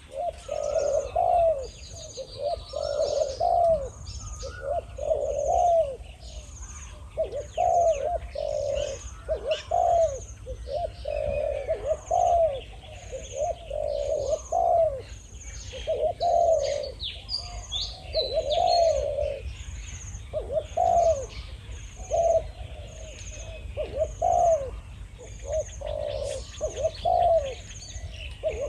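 Spotted doves cooing over and over, their low phrases coming every second or two and overlapping like two birds calling back and forth: a caged decoy dove and a wild dove answering it. Faint chirps of small birds are heard between the coos.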